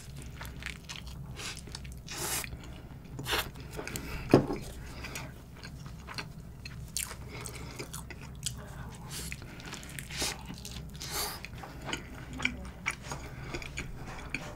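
A person biting into a cheeseburger and chewing it close to the microphone: soft, irregular wet chewing and mouth smacks, with one sharper smack about four seconds in.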